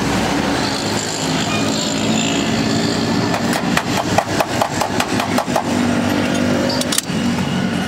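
A motor vehicle engine running steadily, with a quick run of about a dozen light metallic clicks in the middle as rear drum brake parts are handled at the hub, and another click or two near the end.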